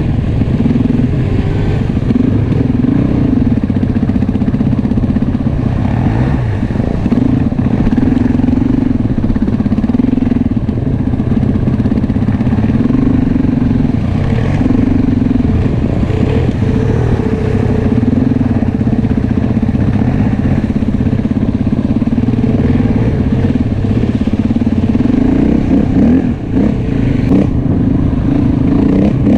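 Enduro motorcycle engine running while being ridden, its pitch repeatedly rising and falling with throttle and gear changes.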